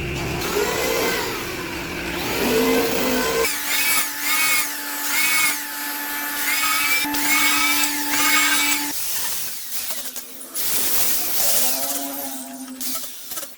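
Power tools working wood in several short edited takes. In the middle, a steady running hum has strokes repeating about every second, and the sound cuts off suddenly at the end.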